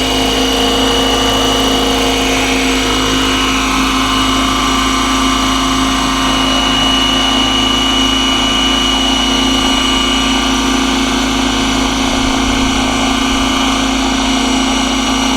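Electric RC helicopter with Align T-Rex 550e mechanics stretched to 600 size, running steadily in flight: a constant motor and gear whine with rotor noise, held at one pitch.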